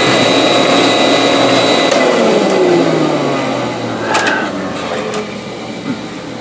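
Vacuum cleaner motor running, then switched off: its whine falls in pitch over a couple of seconds as it spins down, with a few clicks near the end.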